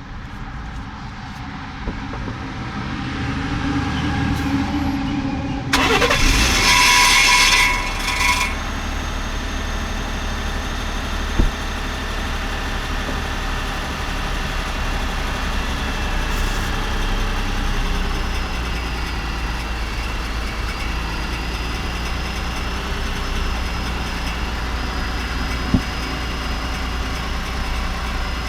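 Ford F-150 3.5-litre V6 starting up: about six seconds in it turns loud, with a bright metallic, tinny clatter lasting two to three seconds, then it settles to a steady idle. This startup noise is the owner's problem, which he likens to the fan tapping the exhaust. Two single sharp knocks stand out during the idle.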